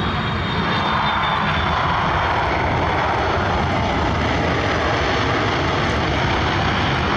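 Jet airliner's engines passing close by: a loud, steady rush of noise that swells about half a second in and then holds.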